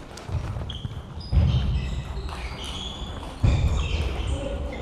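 Several dull thumps a second or two apart, mixed with short high squeaks, in a large sports hall during table tennis play.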